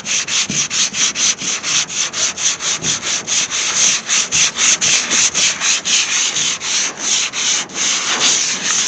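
Hand block-sanding body filler on a car hood: steady back-and-forth sandpaper strokes at about four a second.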